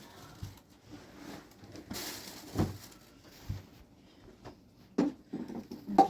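A few scattered knocks and thumps with a short stretch of rustling, the loudest knock near the end: objects being handled and set down.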